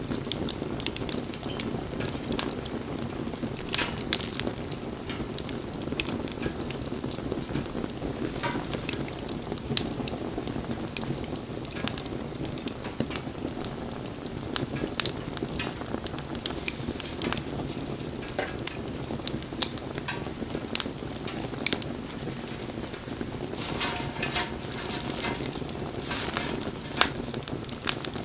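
Wood bonfire burning, with irregular sharp crackles and pops over a steady low rush of flame.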